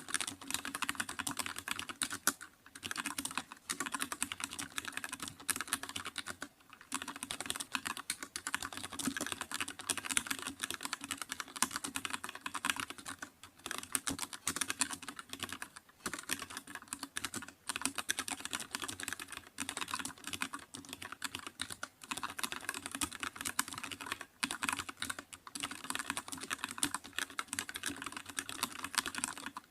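Steady fast typing on a computer keyboard, a dense run of key clicks broken by short pauses every couple of seconds.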